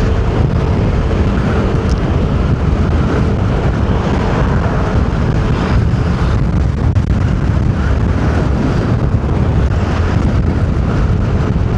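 A car driving, with steady road rumble mixed with wind buffeting the microphone in strong wind.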